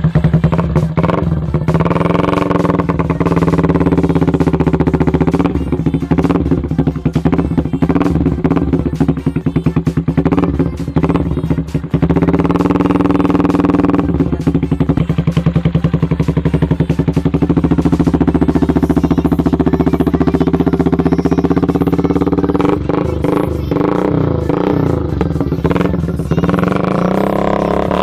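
Yamaha Vixion's single-cylinder four-stroke engine running through an aftermarket racing exhaust. It is revved up and let fall back several times during an exhaust sound check.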